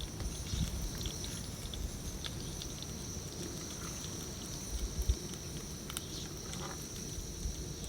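Outdoor ambience: a steady high insect drone with low rumbling and occasional light clicks and knocks.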